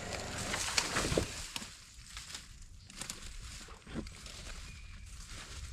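Irregular crunching and rustling, like footsteps through dry leaves and brush, with scattered sharp clicks.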